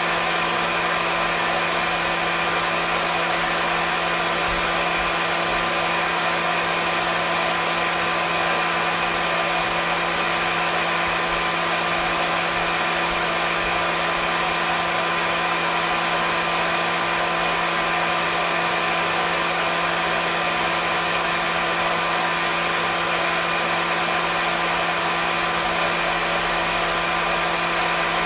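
Hair dryer running continuously: an even, steady rush of air with a constant motor hum, unchanging throughout.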